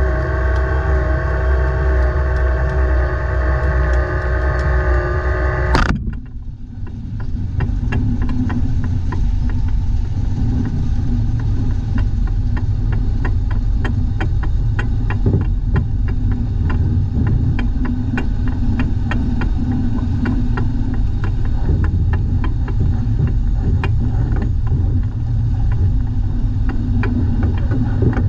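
Dump truck engine running steadily, with a strong whining hum at first. About six seconds in it cuts abruptly to a lower rumble carrying a fast, even clatter of ticks.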